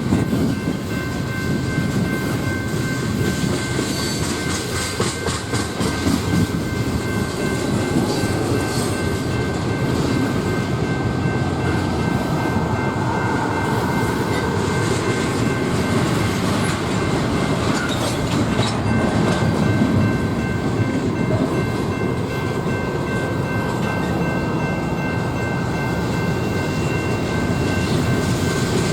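A train rolling past, its wheels clacking over the rail joints in a steady rumble, with a faint steady high whine above it.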